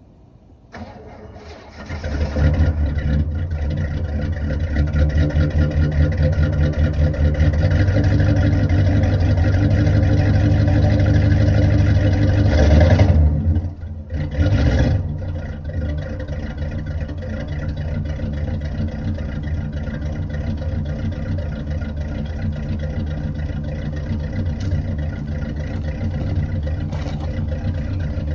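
Chevrolet Caprice V8 cold start: the starter cranks briefly and the engine catches about two seconds in, then runs fast and steady. Around thirteen seconds in it surges, stumbles and nearly dies, then recovers and settles into a lower, uneven idle, the cold engine barely idling and unwilling to take throttle.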